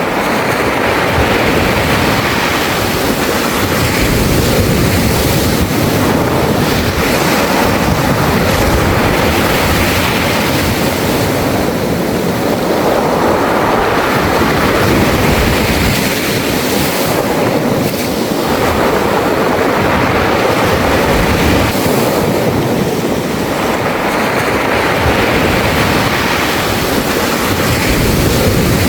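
Waves washing over a beach of round pebbles (mongdol), surging in and drawing back every few seconds, the stones rattling in the wash.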